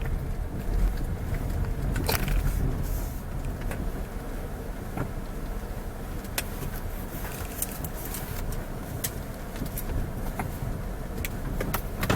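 Low, steady rumble of a moving road vehicle, with scattered light clicks and knocks.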